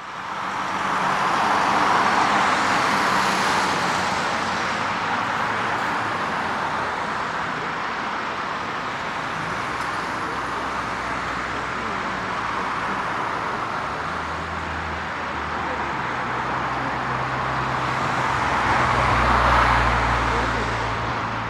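Boeing 787-9's Rolls-Royce Trent 1000 turbofans at takeoff power: a loud, steady rushing jet noise that swells about two seconds in and again near the end, with a deeper rumble building toward the end.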